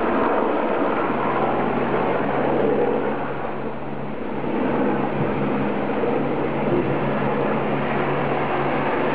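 Radio-controlled model helicopter flying, a steady low hum from its motor and rotors over heavy wind rumble on the microphone. The hum sets in about a second in and holds until near the end.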